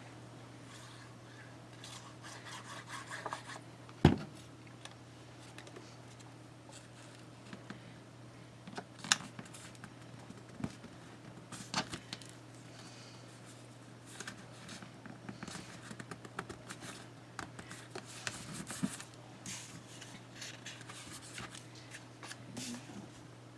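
Paper pieces being handled and pressed down by hand: soft rustling and rubbing with scattered light taps, and one sharper knock about four seconds in, over a steady low hum.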